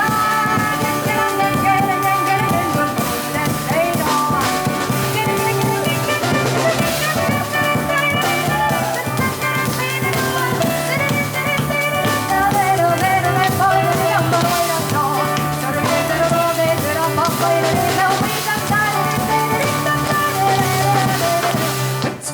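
Live jazz piano trio of piano, double bass and drum kit playing an instrumental passage with no singing; the music drops off suddenly right at the end.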